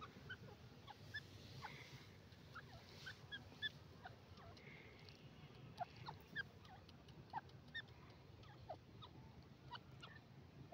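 Faint, irregular short bird chirps and ticks, scattered through the whole stretch over a low background hum.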